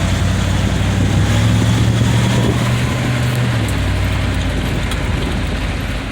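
Vehicle engine running while driving on a dirt road, steady, its note rising a little about a second in and easing back before the middle.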